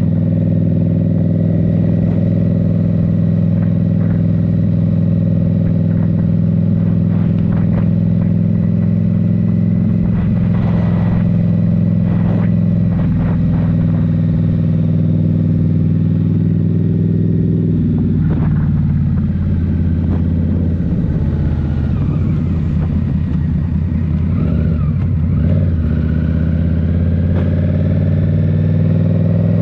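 Indian Scout Rogue's 69 cubic-inch V-twin, breathing through a Rinehart slip-on exhaust, running steadily under way. About eighteen seconds in the engine note drops and wavers, then climbs again near the end.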